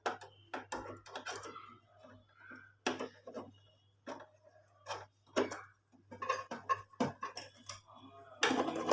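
Irregular clicks, clinks and knocks of small metal parts and covers being handled as an embroidery machine is taken apart, with a louder clattering run near the end.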